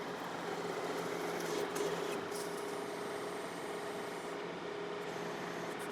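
John Deere 4052R compact tractor's diesel engine running steadily under backhoe work, a continuous hum with a slight swell about two seconds in.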